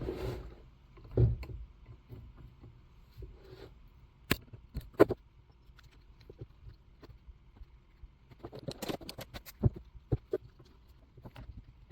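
Scattered clicks and taps of small metal parts and hand tools being handled on a chainsaw's trigger and cable. There is a low thump about a second in, two sharp clicks around four and five seconds, and a busier run of clicking about nine seconds in.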